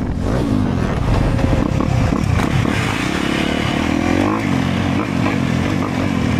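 Dirt bike engines revving, the pitch rising and falling over and over.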